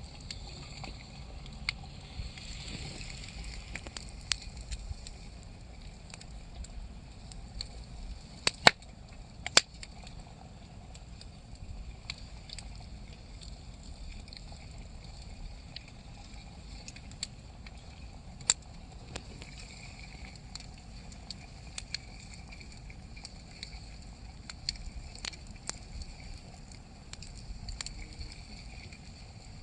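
Wood campfire crackling, with scattered sharp pops throughout and two loud pops about nine seconds in.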